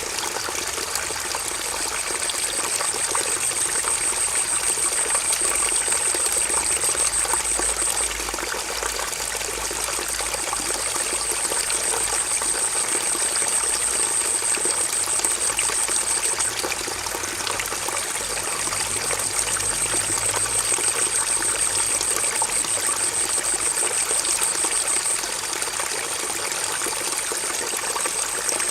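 Water flowing and splashing in a stream, a steady rushing gurgle. Over it a high, rapidly pulsing trill sounds in long stretches, starting and stopping three times.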